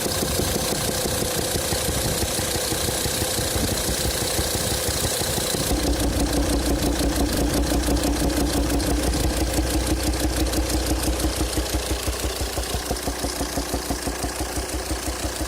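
Volvo D5 five-cylinder diesel idling with a rapid, regular popping coming back through the intake at the throttle body; the pulsing gets louder and deeper about six seconds in. The popping comes from the fifth cylinder, where a sheared exhaust valve lifter socket holds one exhaust valve closed so pressure backfires through the intake valve.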